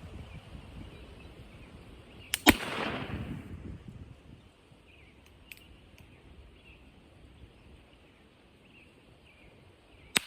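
Pietta 1851 Navy Colt .36 percussion revolver firing a black-powder shot about two and a half seconds in. The cap snaps a split second before the main charge goes off, and the shot rings on afterwards. A few light clicks follow, then a second, shorter sharp crack near the end.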